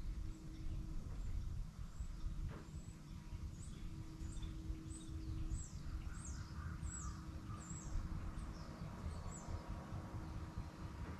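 A bird singing a run of about a dozen high, downward-slurred chirps, roughly one or two a second, starting a few seconds in and stopping near the end, over a steady low rumble.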